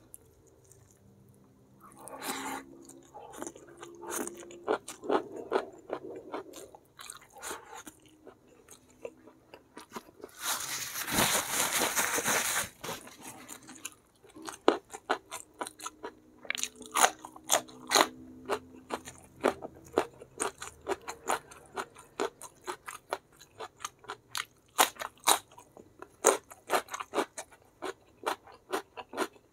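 Close-miked eating: a person biting and chewing, with irregular crunches and wet mouth clicks. A denser, louder stretch of crunching comes about ten seconds in and lasts a couple of seconds.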